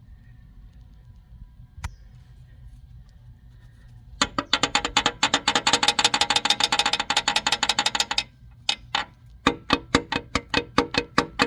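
Ratchet wrench clicking on engine bolts. First comes a fast, continuous run of about eight clicks a second lasting some four seconds. After a brief pause, a slower run of separate clicks follows at about five a second.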